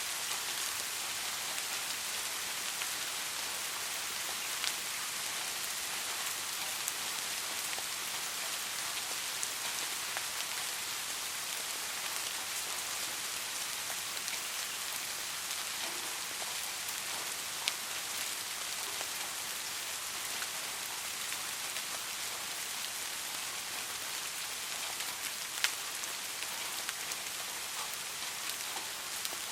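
Steady soft rain falling, an even hiss with scattered individual drop ticks.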